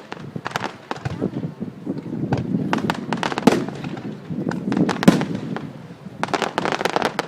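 Fireworks display: shells bursting in irregular bangs and crackles, often several close together. The sharpest bangs come about three and a half and five seconds in, and a quick run of crackles comes near the end.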